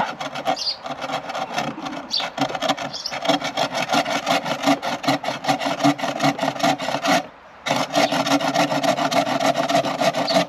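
Wood being sawn by hand with a homemade buck saw in steady back-and-forth strokes, with a short pause about seven seconds in before the sawing resumes.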